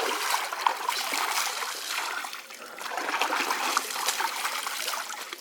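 Shallow stream water trickling and splashing, in uneven swells with small irregular splashes.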